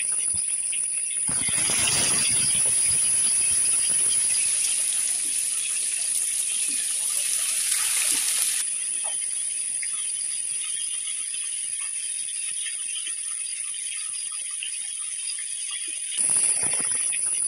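Spice-coated whole pomfret shallow-frying in hot oil in a nonstick pan: a steady sizzle with small crackles and spits. The sizzle is fuller from about a second in to about eight seconds, then quieter, and swells again near the end as a spatula scrapes and turns the fish.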